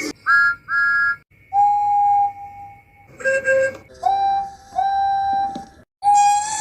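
Electronic whistle sound effects from TrackMaster All Engines Go toy trains: a string of whistle toots, two short high ones first, then several longer, lower ones.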